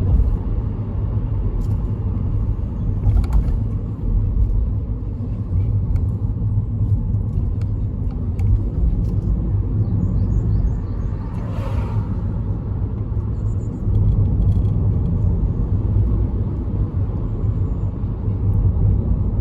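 Steady low rumble of road and engine noise heard from inside a moving car, with a brief swell about twelve seconds in.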